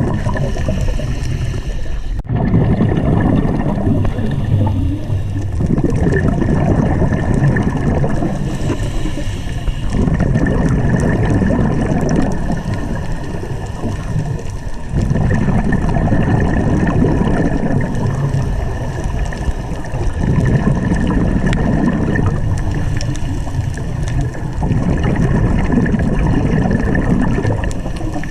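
Scuba diver's breathing heard underwater: exhaled bubbles bubbling out of the regulator in long surges every few seconds, with quieter stretches between. A steady thin high tone runs underneath, and the sound drops out briefly about two seconds in.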